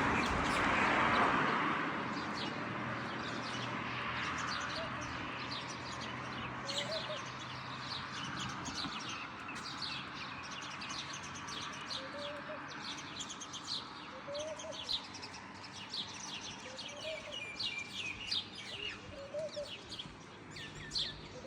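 Many small songbirds chirping, the chirps growing thicker as it goes on, with a lower short call repeated every couple of seconds. A broad rushing noise at the start fades over the first few seconds.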